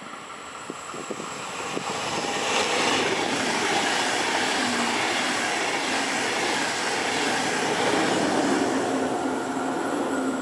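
Electric passenger train passing close by at speed. It rises from a distant rumble to a loud, steady rush of wheels on rails about two and a half seconds in, with a faint steady hum, and stays loud to the end.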